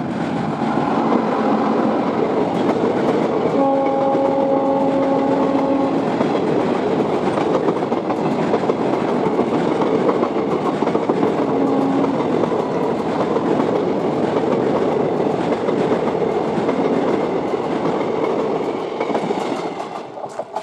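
Electric locomotive and passenger coaches crossing a steel truss rail bridge at speed: a steady heavy rumble and wheel clatter. A horn blast of about two seconds sounds a few seconds in, and a shorter one near the middle. The sound cuts off suddenly at the end.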